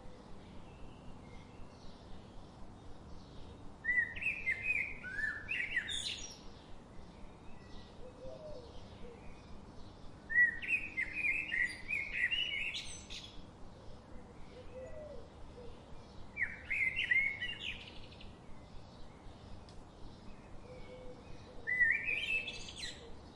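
A songbird singing four loud phrases of quick, sweeping high notes, about one every six seconds, each lasting one to three seconds. Between phrases a faint, rapid, even chirping carries on.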